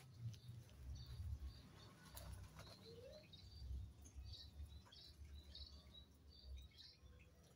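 Faint birds chirping, short high notes repeated every half second or so, over a low rumble.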